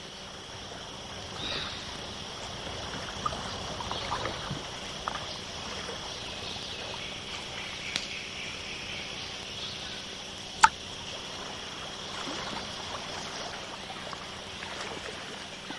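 Night-time forest ambience: a steady high-pitched chorus, with a few faint chirps and a single sharp click about ten and a half seconds in.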